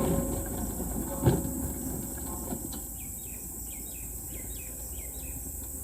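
Forest ambience: a low rumbling noise with a couple of sharp knocks in the first second or so, fading, then a bird giving a quick series of short, falling chirps. A steady high insect drone runs underneath.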